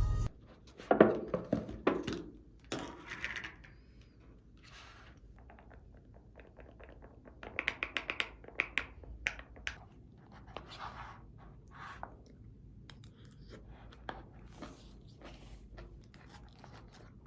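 Close-up household handling sounds: irregular clicks and knocks with short rustling and tearing noises, loudest about a second in and again as a quick run of clicks a little past the middle.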